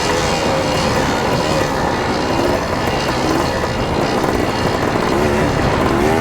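Off-road vehicle engine running under way, its pitch wavering up and down as the throttle changes, over a dense rushing noise.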